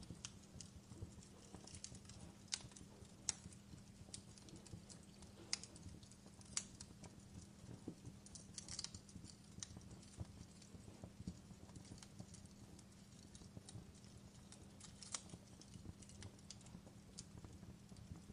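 Wood fire crackling in a fireplace: faint, irregular sharp pops and snaps over a low steady rumble.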